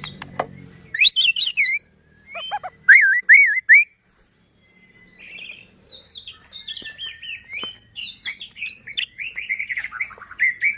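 White-rumped shama (murai batu) singing: loud looping whistles in the first few seconds, a brief pause, then a long fast run of varied chattering notes.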